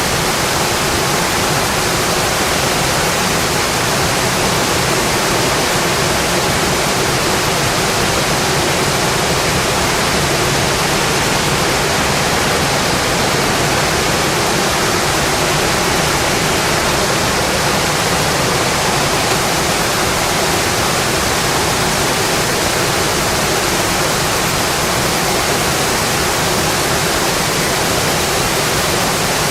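Rain falling steadily on a windowpane: a dense, even wash of noise that does not change.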